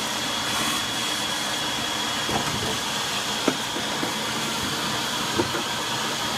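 Vacuum cleaner running steadily with a high whine, sucking walnuts and debris out from under a truck's cowl, with a few sharp clicks along the way.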